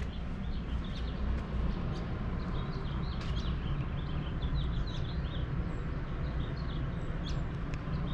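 Small birds chirping and twittering, many short high calls in quick succession, over a steady low rumble.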